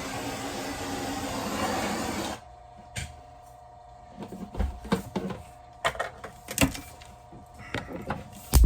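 Heat gun blowing steadily on a glued plastic water pipe, switched off abruptly about two and a half seconds in. Scattered clicks and knocks follow as the pipe is handled.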